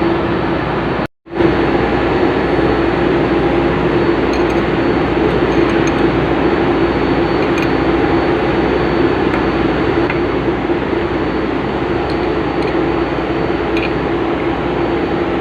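Steady, loud drone of ship's engine-room machinery with a strong hum, and now and then light metallic clinks of hand tools on engine parts. The sound cuts out completely for a moment about a second in.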